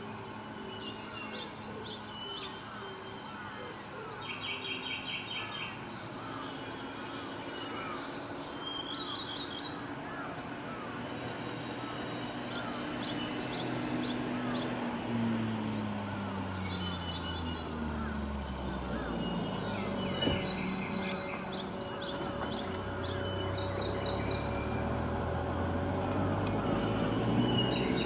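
Wild birds calling repeatedly in short, high-pitched phrases. Under them an engine is heard from about halfway through. Its low note falls once, then holds steady as it grows slowly louder.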